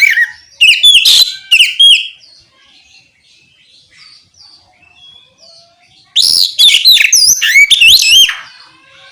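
Oriental magpie-robin singing loud, rapid phrases of looping whistled notes: one phrase in the first two seconds, soft scattered notes after it, then a second loud phrase about six seconds in.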